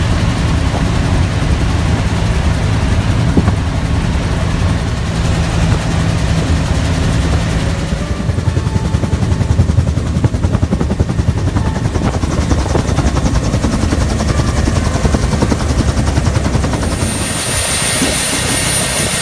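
Bell UH-1 Huey helicopter running, a loud steady rotor beat over a low engine drone. A high turbine whine comes in near the end.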